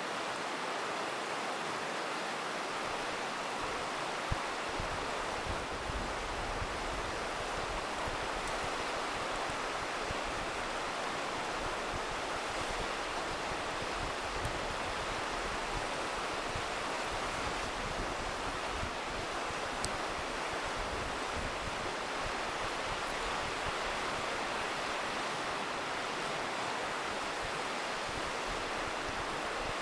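A river rushing steadily, with a few faint pops from a crackling campfire.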